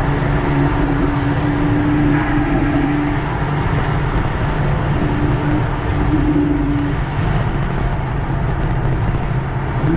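BMW X3 M Competition's S58 twin-turbo straight-six running at steady highway cruise, a continuous drone over tyre and road noise.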